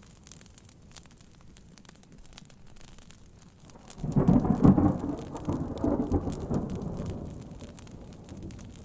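A roll of thunder breaks about four seconds in, loud and deep, and dies away over the next four seconds. It sits over faint rain and the light crackle of a wood fire.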